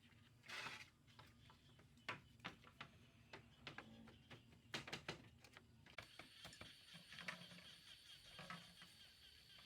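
Faint, irregular clicks and light knocks, with a short hiss about half a second in; from about six seconds a thin steady high whine runs underneath.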